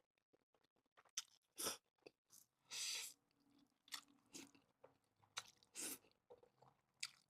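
A person chewing food close to the microphone: quiet, scattered wet chews and soft crunches, about a dozen over several seconds with near silence between them.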